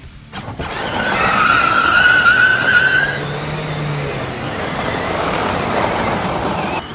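Vehicle tyres skidding: a loud rushing noise with a squeal running through its first half.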